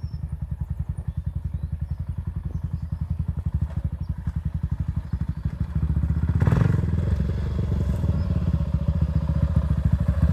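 Honda XR650R big single-cylinder dirt bike engine running at low revs, a steady beat of evenly spaced firing pulses. It gets louder about six seconds in, with a brief clatter at that moment.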